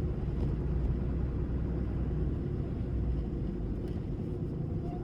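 Steady low rumble of a vehicle driving, heard from inside the cab: engine and road noise with no distinct events.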